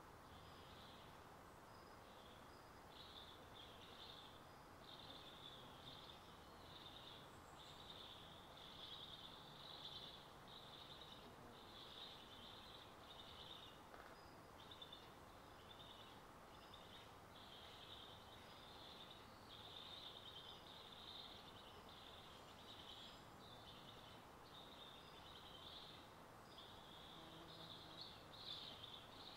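Faint high-pitched bird chirping in quick, uneven bursts that carry on throughout, over a low hiss, a little louder near the end.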